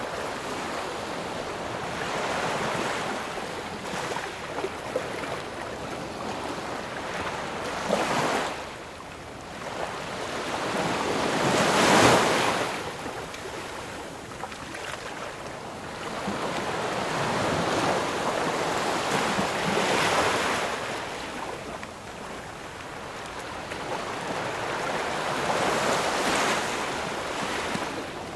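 Ocean surf: waves breaking and washing in, the hiss swelling and ebbing every several seconds, the biggest wave about twelve seconds in.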